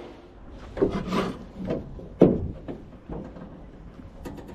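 Repeated scraping and rubbing, with one sharp knock about two seconds in and a few light clicks near the end.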